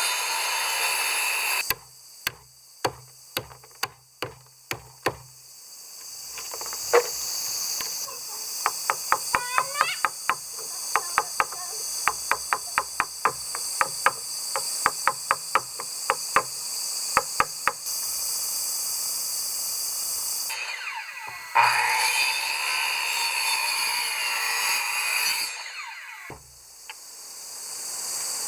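Hammering on wood: a run of sharp, loud knocks, then many quicker, lighter strikes, framed by two stretches of a power tool running, with a steady high buzz of insects underneath.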